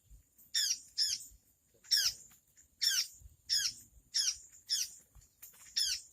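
Ciung air (tit-babbler) calling: a run of short, sharply falling notes repeated one or two times a second.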